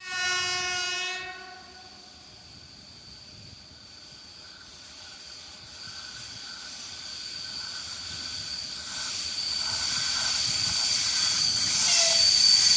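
EP1 electric locomotive sounding its horn in one blast of about a second, then the noise of the approaching train rising steadily, with a steady high-pitched whine over it.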